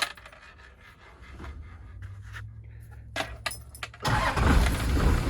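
Toyota 12H-T 4.0 L inline-six turbo diesel starting. A few clicks over a faint low hum, then about four seconds in the engine catches suddenly and runs loudly.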